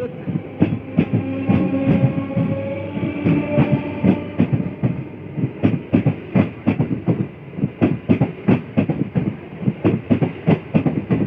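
EMU local train coaches rolling past, wheels clattering rhythmically over rail joints at about two to three clicks a second. A steady whine, rising slightly in pitch, runs under the clatter for the first four seconds or so.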